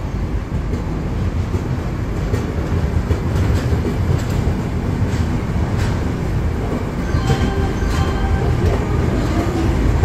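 Passenger express train rolling slowly out of the station just after departure, heard from an open coach doorway: a steady low rumble of the coaches with scattered clicks from the wheels.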